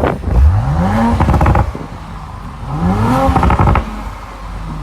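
2019 Audi RS5's twin-turbo V6 revved twice while parked, each rev climbing quickly for about a second and then dropping off, with crackle near the top of each rev.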